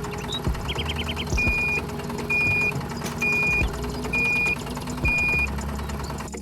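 A reversing alarm beeping five times at a steady high pitch, about one beep a second, over a steady low engine drone.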